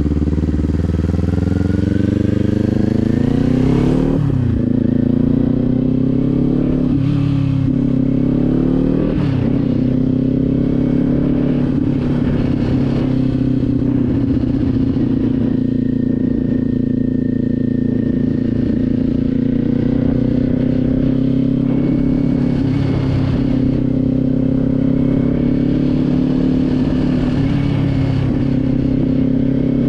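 Motorcycle engine heard from the bike, accelerating through the gears: the pitch climbs and drops back with each upshift, three times in the first nine seconds or so. After that it runs at a fairly steady cruising speed, with small rises and dips in pitch.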